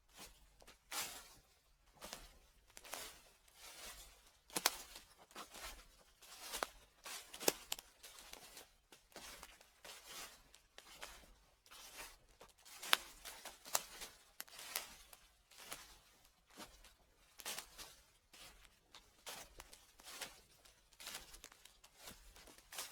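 Footsteps through fallen leaves at a steady walking pace, about one step a second, each step a short rustle of leaves.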